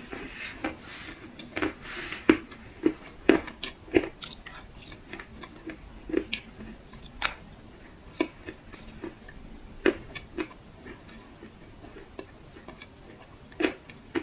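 Dry clay being bitten and chewed: a string of crisp, irregular crunches and cracks, close to the microphone.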